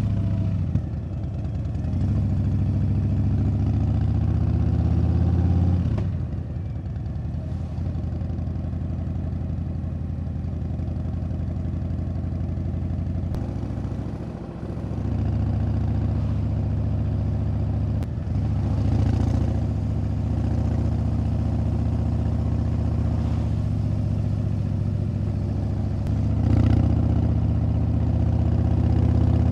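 Harley-Davidson Breakout 117's Milwaukee-Eight 117 V-twin running under way. The engine pitch climbs as it pulls, then drops sharply at gear changes about six seconds in, around fourteen seconds and around eighteen seconds, with another rev near the end.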